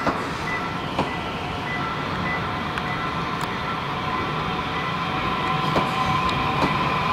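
Korail ITX-Saemaeul electric multiple unit passing close by, its wheels running on the rails with occasional sharp clicks, growing slightly louder toward the end. A pulsing high tone sounds over the first few seconds.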